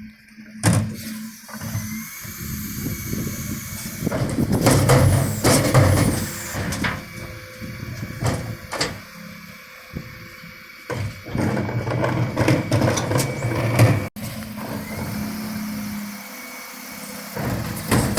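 Dennis Eagle refuse truck running while its Terberg bin lifters work: a steady engine hum under repeated clunks and knocks of wheelie bins being lifted and emptied into the body.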